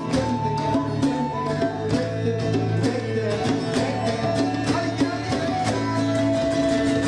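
Band music: guitar over a steady drum beat with sustained bass and chordal notes.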